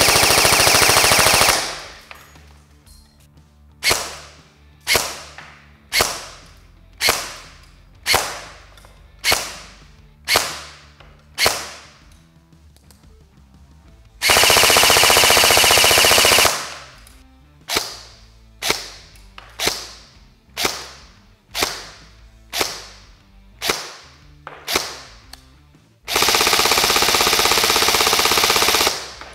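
Amoeba Mutant airsoft electric guns (AEGs, V2 gearbox) firing BBs over a chronograph: three full-auto bursts of two to three seconds each, with a run of about eight single shots, roughly one a second, between the bursts.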